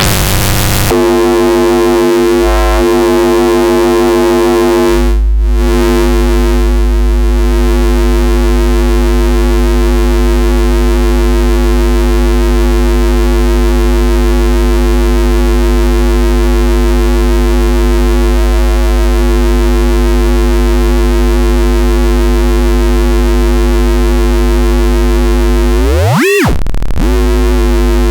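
FM synthesizer patch built in Bitwig's Polygrid, holding one steady, overtone-rich bass note. A deep sub-bass layer comes in about five seconds in, and near the end the pitch dives sharply and swings back up.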